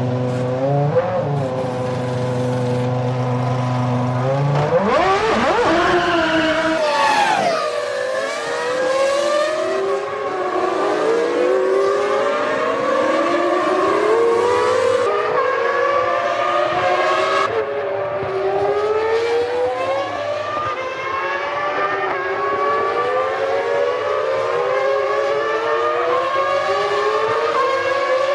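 Formula One V10 engines held at a steady note, then about five seconds in a field of cars accelerates away together, many engines climbing in pitch through repeated upshifts, overlapping one another.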